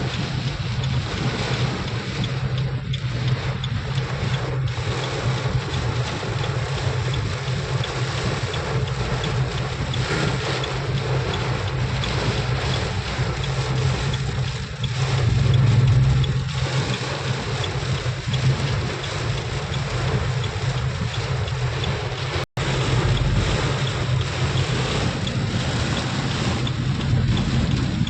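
Heavy rain falling steadily, with wind rumbling on the microphone. The sound cuts out for an instant about three quarters of the way through.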